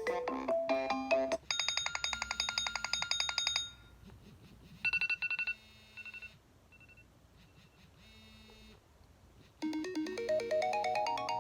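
iPhone 5s ringtones played one after another through the phone's speaker. A melody ends about a second in, then a fast, high-pitched trill rings for about two seconds. A few short beeps and chirps follow, and a new melody starts near the end.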